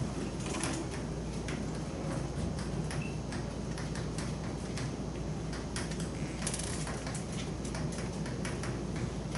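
Chalk tapping and scraping on a blackboard as equations are written: irregular short clicks, over a steady low room hum.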